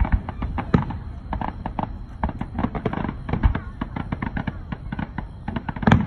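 Aerial fireworks bursting: rapid crackling and popping throughout, with several louder booms.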